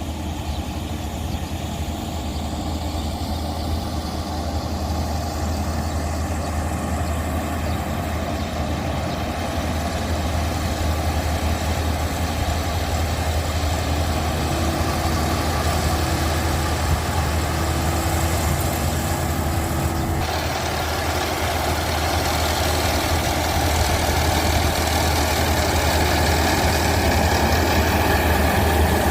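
A heavy engine running steadily with a strong low hum, slowly growing louder.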